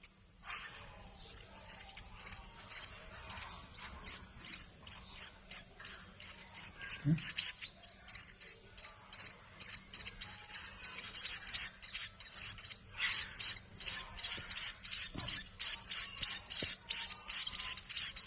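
A brood of munia nestlings giving rapid, high-pitched begging chirps, several a second, the hungry chicks calling for food. The chirping starts faint and grows louder and busier over the second half.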